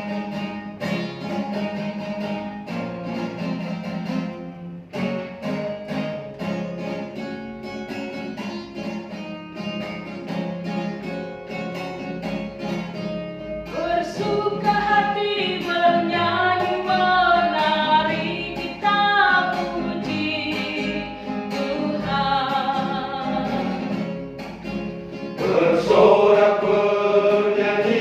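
Instrumental introduction to a choir song with guitar-like plucked accompaniment; about halfway through, wordless singing with a wavering melody joins in, growing louder near the end.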